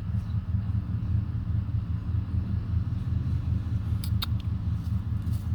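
Steady low rumble of a vehicle engine running, with a couple of short high chirps from a bird about four seconds in.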